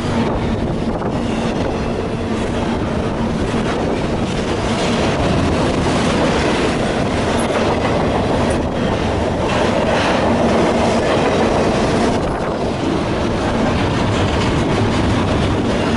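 A train passing close by at speed: the cars' wheels running on the rails in a loud, steady rumble that holds throughout.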